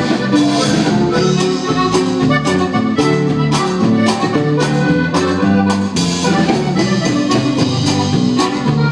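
Norteño band playing an instrumental passage led by accordion, over a steady beat with bass and rhythm strings.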